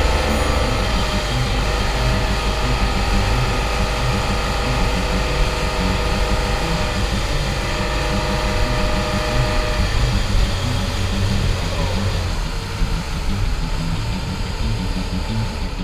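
Speed boat engine running steadily under way, its steady tones over a low rumble easing a little after about twelve seconds.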